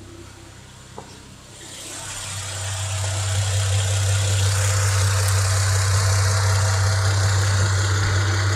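Car engine idling at a steady speed. About a second and a half in, a rushing noise swells up over it and then holds steady.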